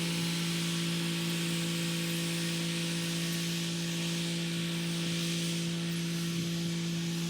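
Kubota SL35 tractor's diesel engine running steadily while pulling a rotary tiller: a constant drone with a hiss above it.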